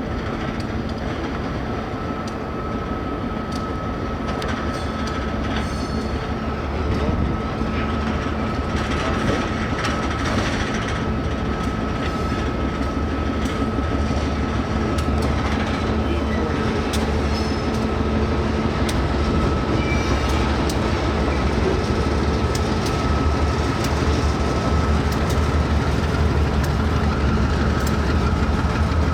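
Diesel-hauled freight train rolling past at low speed: a steady low locomotive rumble with wheels clicking over rail joints and a thin, steady high-pitched squeal held throughout, the sound slowly growing louder.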